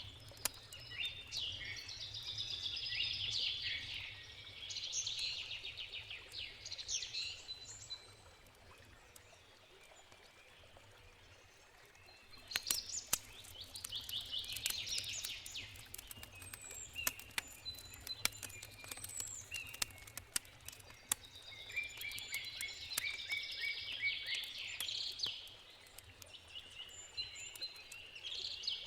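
Songbirds singing in several long bursts, over the sharp crackles and pops of a wood campfire.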